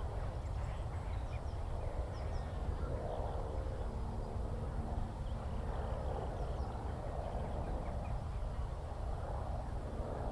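Open-country ambience: a steady low rumble of wind on the microphone, with faint, scattered high bird chirps and soft calls that swell and fade in the middle distance.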